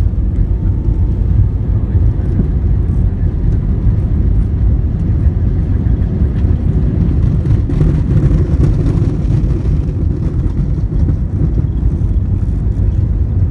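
Steady low rumble of an airliner heard from inside the passenger cabin.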